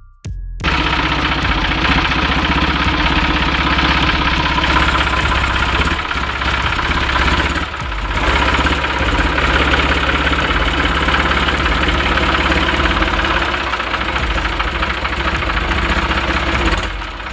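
Tafe 8055 tractor's diesel engine running steadily at idle, with a short break right at the start and brief dips about halfway and near the end.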